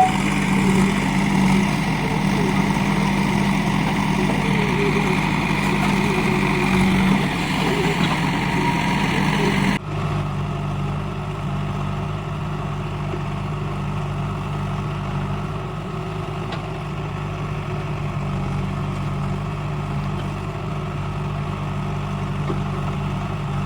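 Heavy diesel engine running steadily. About ten seconds in, the sound changes abruptly to a lower hum.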